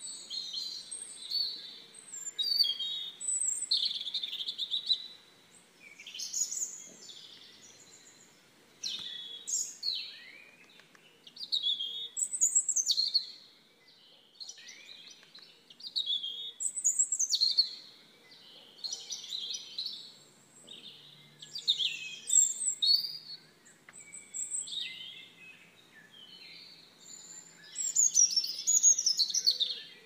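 Songbird singing: short phrases of quick chirps and gliding whistled notes, a phrase every two seconds or so with brief pauses between.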